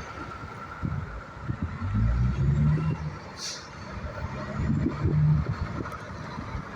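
Road traffic with heavy trucks passing, their engines rumbling loudest about two to three seconds in and again around five seconds in. A brief hiss sounds about three and a half seconds in.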